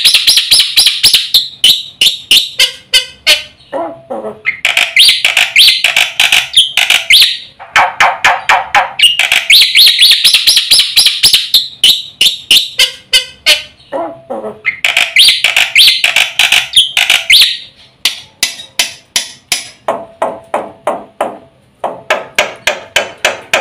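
Black-winged starling (jalak putih) singing loudly: bursts of fast chattering notes, each lasting two to three seconds and coming back about every five seconds, with runs of sharp clicking notes between them and a longer stretch of rapid clicks near the end.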